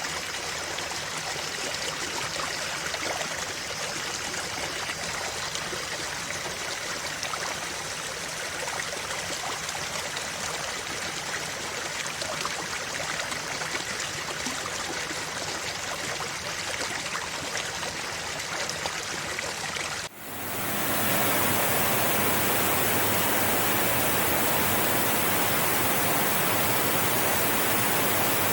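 Stream water flowing steadily. About two-thirds of the way in, it cuts abruptly to a louder, denser and brighter steady rush of water.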